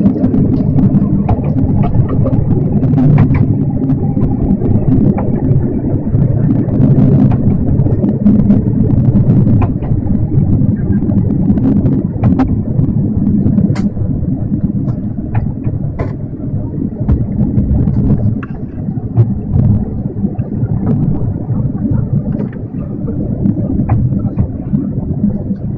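Diesel railcar running along the track: a steady low engine and wheel rumble with occasional clicks and knocks from the rails, getting a little quieter in the second half as the train slows for the station.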